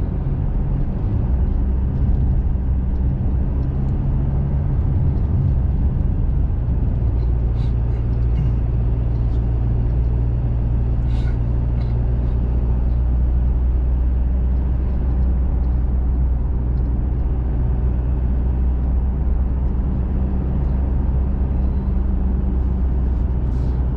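Pickup truck driving at steady road speed, heard from inside the cab: a low, steady engine drone under even tyre and road noise, with a few faint ticks.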